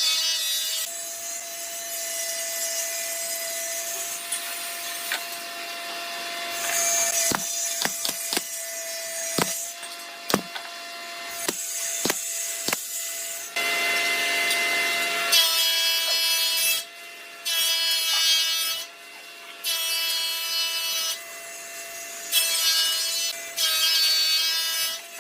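Wood being sawn or cut in repeated passes of a second or two, over a steady machine hum, with scattered sharp knocks in the middle.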